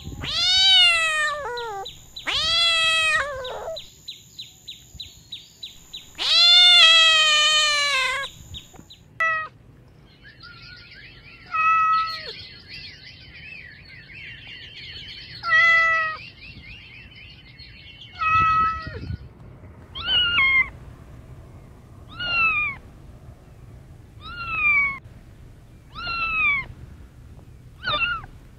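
Kitten meowing over and over, about a dozen high, falling meows with short gaps between them; the longest and loudest comes about seven seconds in. Faint high chirping runs behind the meows in the middle stretch.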